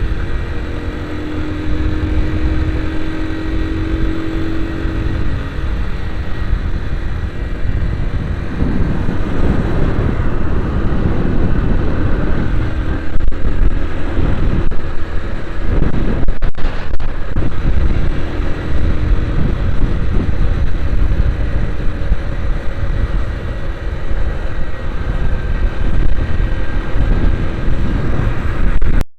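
A vehicle on the move: steady engine and road noise with a heavy low rumble, and a brief dip about halfway through.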